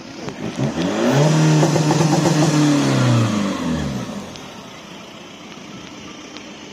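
Car engine revving: the pitch climbs, holds high for about two seconds, then drops away, loudest in the first half. After that only lower, steadier traffic noise remains.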